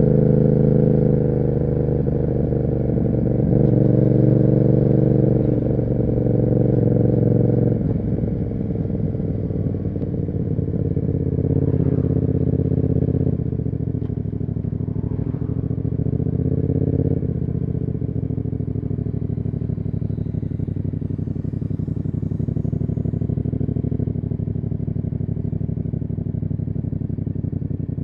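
Yamaha MT-07's 689 cc parallel-twin engine running through an SC Project aftermarket exhaust while riding, pulling under throttle for the first several seconds, then easing off to a steadier, quieter note for the rest.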